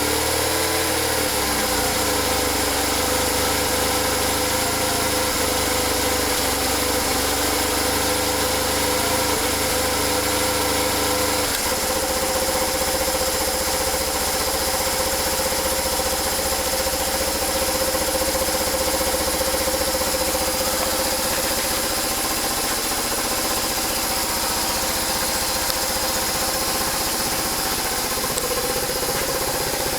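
BMW R1100's air/oil-cooled boxer twin idling steadily after a month standing unused, its note shifting abruptly about a third of the way in.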